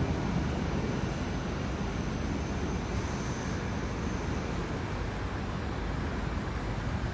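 Steady outdoor background rumble with no distinct events, heaviest in the low range, with a faint thin high tone through the first few seconds.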